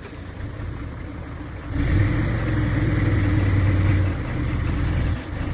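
Truck diesel engine revving up about two seconds in and holding steady revs under load as it pulls on the tow cable, then easing off near the end.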